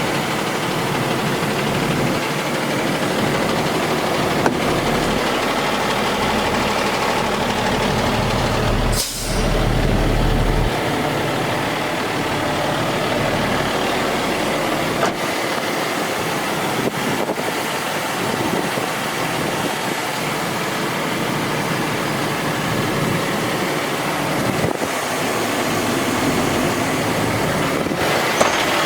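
Ford F750 truck's Cummins 6.7L ISB diesel engine running steadily. About nine seconds in there is a short break, then a louder low rumble for a second or so.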